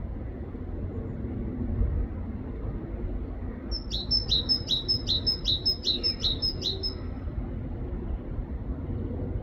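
Great tit singing one phrase of about ten quick repeats of its two-note 'teacher' unit, a high note slurring down to a lower one, about three a second for some three seconds midway. A steady low rumble lies underneath.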